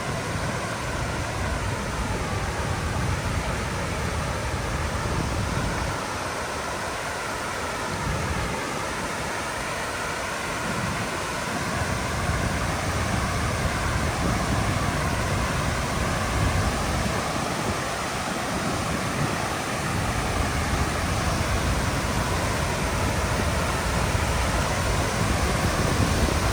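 A large waterfall rushing steadily, with gusts of wind buffeting the microphone as a low rumble that rises and drops every few seconds.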